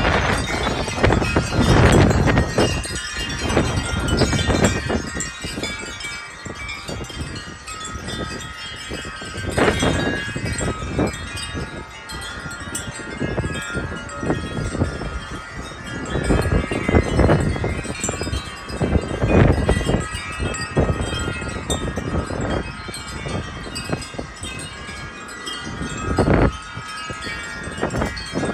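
Wind chimes ringing and clanging continuously in strong gusty wind, with repeated gusts buffeting the microphone in loud surges.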